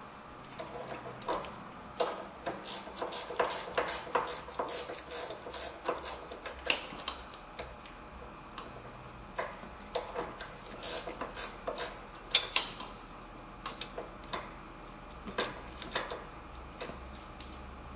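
Ratchet wrench clicking in quick, irregular runs as it is worked back and forth to back off the lower nut of a stabilizer link, with a short pause partway through and fewer clicks near the end.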